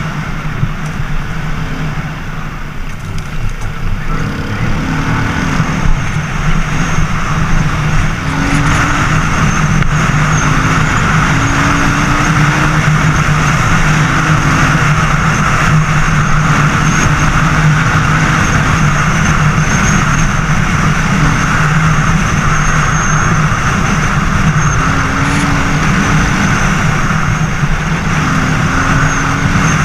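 Racer Panther 300 enduro motorcycle engine running steadily under way, with a rushing noise over it. It is a little quieter for the first few seconds, then holds a louder steady pace from about eight seconds in.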